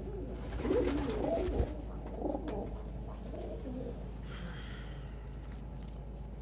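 Domestic pigeons cooing, several low warbling coos over the first few seconds, with a run of short, high peeps among them.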